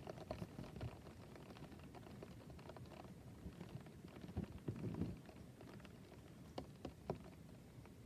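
Heavy rain pattering against a shut window, heard from inside as a dense spatter of small ticks, with a few louder taps in the second half.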